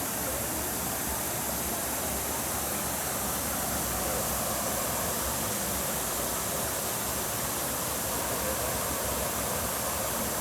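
Steady, even rush of spring water pouring over a small waterfall.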